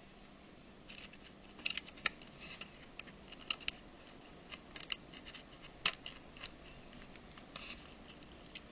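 Irregular small clicks and scrapes of the iPhone 5 loudspeaker assembly and small tools being pressed and worked into the phone's housing. The sharpest click comes about six seconds in.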